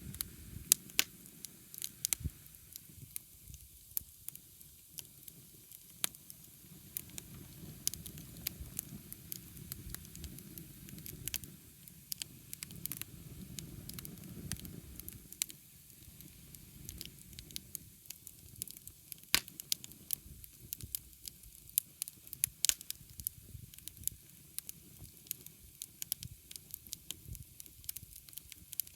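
Wood fire burning: irregular sharp crackles and pops over a low, steady rumble of flame.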